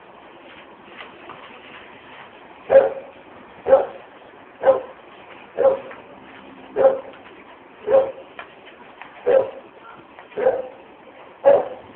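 A dog barking repeatedly, about one bark a second, nine barks in a row starting a few seconds in.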